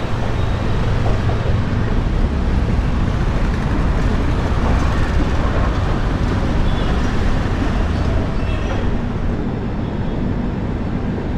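Double Decker express train running, a steady low rumble and noise from the moving train.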